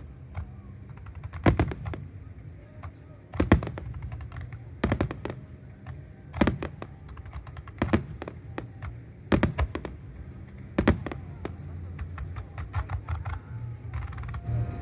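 Aerial firework shells bursting: about seven sharp bangs, each with a short rumbling echo, coming roughly every one and a half seconds, with smaller crackling reports between them and fewer loud bangs near the end.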